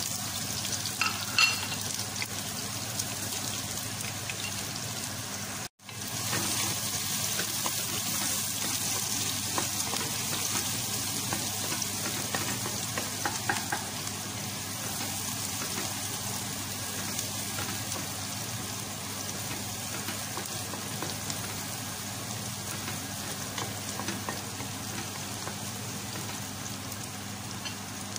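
Diced onion sizzling as it fries in hot cooking oil in a pot, a steady hiss. The sound cuts out for an instant about six seconds in.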